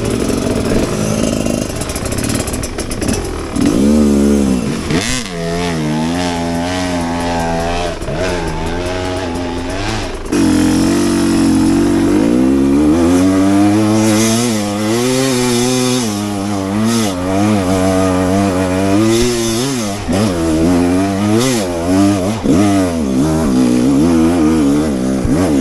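Enduro dirt bike engine being ridden hard off-road, its pitch rising and falling again and again with the throttle, held steadier for a couple of seconds about ten seconds in, with a few short knocks along the way.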